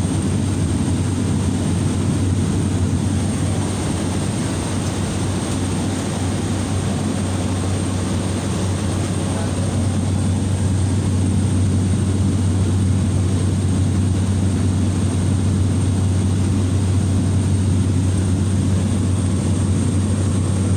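Steady drone of a small Susi Air propeller plane in cruise, heard from inside the passenger cabin: a constant low engine-and-propeller hum under a wide rushing noise. It gets slightly louder about halfway through.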